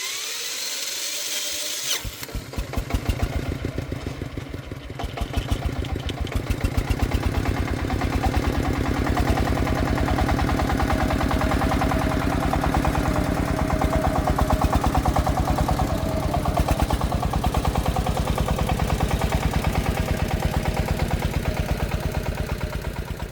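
Công nông farm vehicle's single-cylinder diesel engine. After a hiss of about two seconds, it catches and settles into a steady, even putter that builds over the next few seconds.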